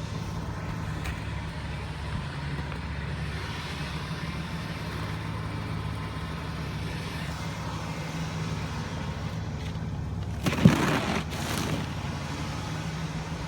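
1991 Buick Park Avenue's V6 engine idling steadily in the cold. About ten seconds in, a single sudden loud thump, followed by about a second of rough noise.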